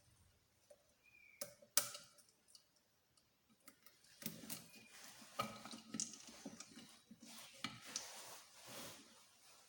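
Hand tools and small metal engine parts being handled during disassembly: a few sharp clicks and two knocks about two seconds in, then several seconds of clattering and scraping.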